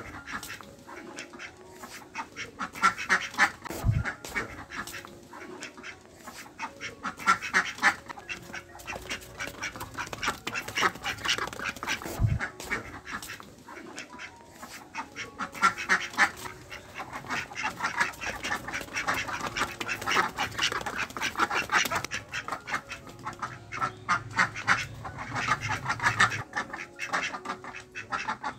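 Ducks quacking over and over, in runs of quick calls that come every few seconds.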